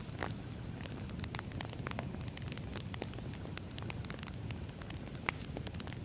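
Wood fire burning, crackling with irregular pops and snaps over a low, steady rumble, with one louder pop about five seconds in.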